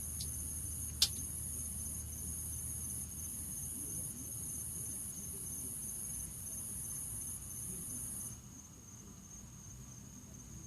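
A cricket trilling steadily in a high, continuous chirp, then stopping suddenly about eight seconds in. A single sharp click about a second in.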